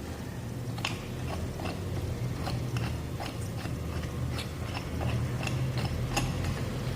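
Hand wrench loosening the bolts on a car AC compressor's housing: a string of irregular metallic clicks, two or three a second, over a low steady hum.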